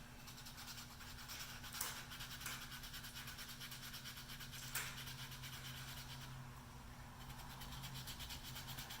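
Sandpaper rubbing over the finish on a wooden gunstock in quick, light back-and-forth strokes: faint, rapid scratching while the repaired spots are blended in with finer grits.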